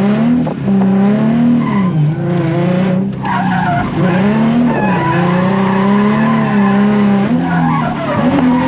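Drift car engine revving hard, its pitch climbing and dropping several times over the few seconds, with tyres skidding as the car slides through a drift.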